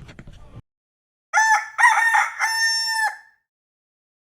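Rooster crowing once: a single cock-a-doodle-doo of about two seconds, in several linked parts, starting about a second and a half in.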